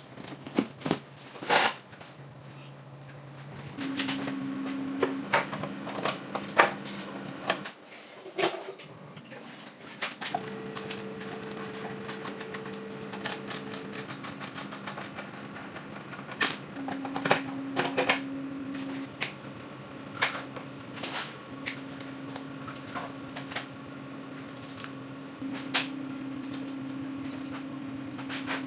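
Irregular clicks, clinks and knocks of hand tools working on motorcycle parts, over a steady low hum.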